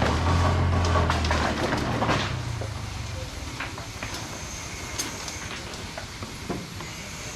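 A motor vehicle's engine running nearby, loudest at first and fading away after about two seconds, followed by a few scattered light knocks.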